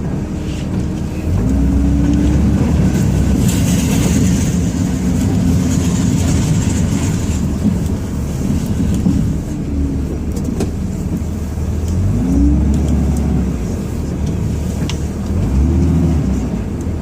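Ram 2500 pickup's Cummins inline-six diesel engine, heard from inside the cab, revving up and easing off again several times, about four rises in engine pitch, as the truck pushes snow with its plow.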